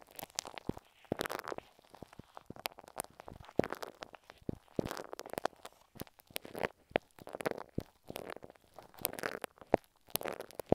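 Stick glue pressed and rubbed right against an earphone microphone: irregular sticky squelches, crackles and sharp little pops.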